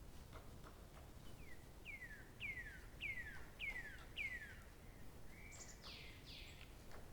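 A bird singing a series of about six clear whistled notes, each sliding downward, about two a second, ending in a couple of higher, rougher notes.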